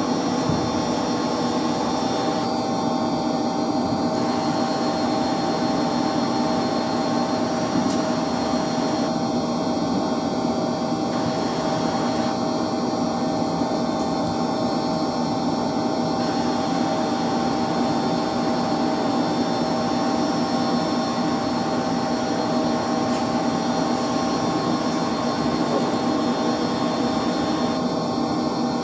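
Steady machinery hum of running heating circulation pumps and their electric motors: an even drone with several steady tones, unchanging throughout.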